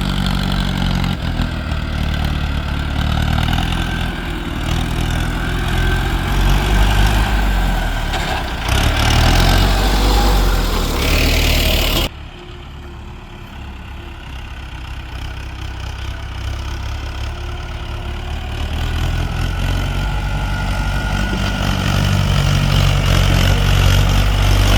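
Diesel tractor engine running under load with a loaded trolley. The sound drops off abruptly about halfway through, then the engine grows steadily louder toward the end as a tractor pulls its trolley up the ramp.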